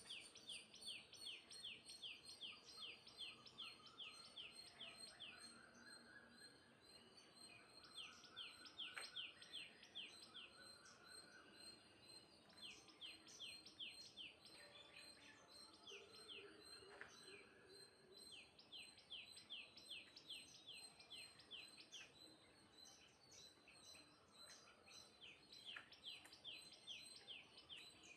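Faint bird chirping: bouts of quick, repeated, high chirps, about three a second, each bout lasting a few seconds, with short pauses between.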